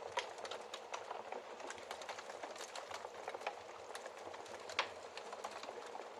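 Wood fire in a fireplace crackling: a steady soft hiss with frequent irregular snaps and pops, the sharpest just after the start and about five seconds in.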